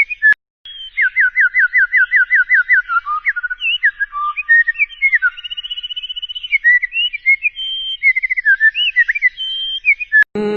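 A songbird singing a varied song of clear whistled notes and slurs, including a fast trill of about eight repeated falling notes a second. There is a brief break about a third of a second in, and the song is cut off just before the end.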